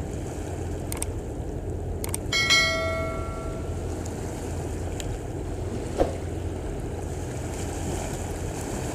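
Steady low engine drone of a passing container ship over wind and water noise. A single bell-like metallic ring sounds about two and a half seconds in and fades over about a second.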